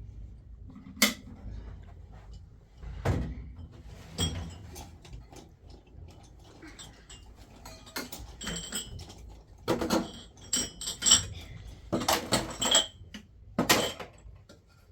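Scattered knocks and clinks of things being handled, with a sharp knock about a second in and denser clatter from about ten seconds on.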